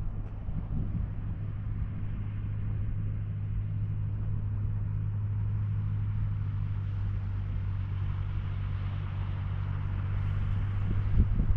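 Small ferry boat's engine running at a steady pace, a constant low hum, with low wind rumble. A few short thumps near the end.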